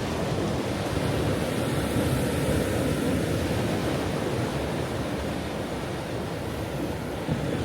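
Ocean waves washing on a shore, a steady rushing surf with no single distinct crash.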